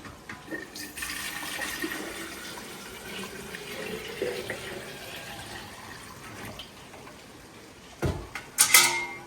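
Water running from a tap into a sink or pot for several seconds, then a thump and a loud ringing clatter of kitchenware near the end.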